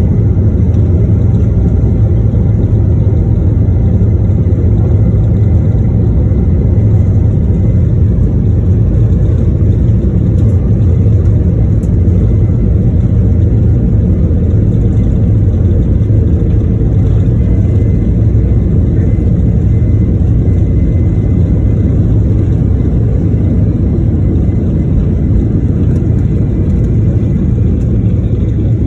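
Cabin noise of a Boeing 737-900ER at takeoff power: its CFM56-7B engines and the takeoff run make a loud, steady low rumble, with a faint high whine above it.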